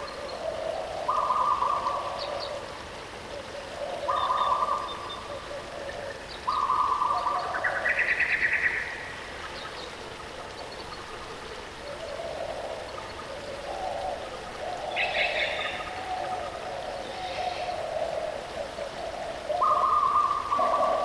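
Birds calling: repeated held, hooting notes that step between two pitches every second or two, with a few higher chirps, over a faint steady rush of falling water.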